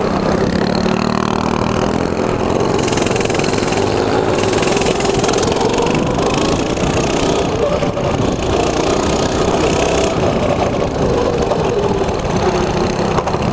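Small mini bike engine running under throttle as it is ridden, its pitch wavering a little, with bursts of wind rush on the microphone coming and going.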